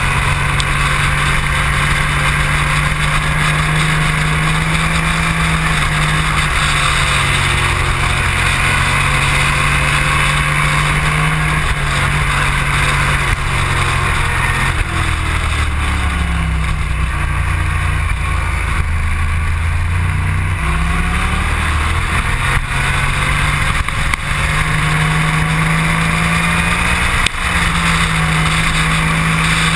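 Motorcycle engine running hard on a track lap, heard from a camera mounted on the bike, with a constant rush of wind noise. The engine note holds high, falls about halfway through as the bike slows for a corner, and climbs again toward the end as it accelerates.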